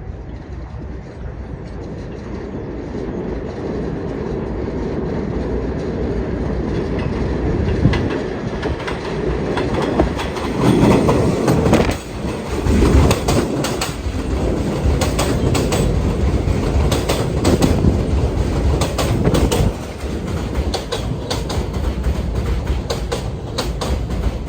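New York City subway train arriving and running past, its wheels clicking rhythmically over the rail joints. It grows louder over the first ten seconds and is loudest for the next ten.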